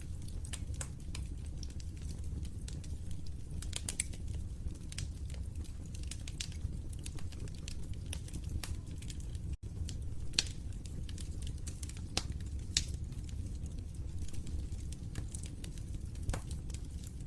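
Fireplace fire crackling: a steady low rumble with frequent sharp pops and snaps at irregular intervals. The sound cuts out for an instant about ten seconds in.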